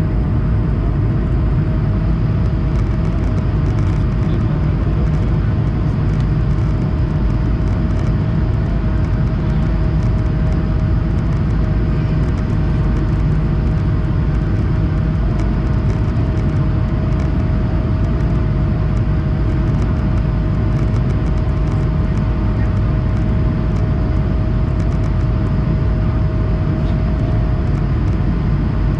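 Steady cabin noise of an Airbus A220-100 in flight, its Pratt & Whitney PW1524G geared turbofans running at constant power: an even, loud rush of engine and airflow noise with one steady hum held throughout.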